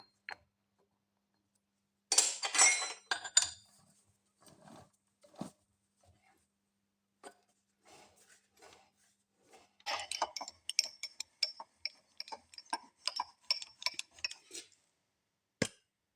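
Metal clinking and rattling as the axle and cutting tool are set up in a lathe: a short burst about two seconds in, a few scattered clicks, then a long run of quick clinks from about ten seconds in, and one sharp knock near the end. The lathe is not running.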